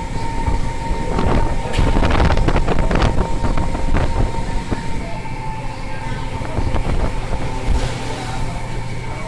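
Machinery aboard a longline fishing boat: a steady low drone with a constant high whine, and a run of clattering knocks in the first few seconds.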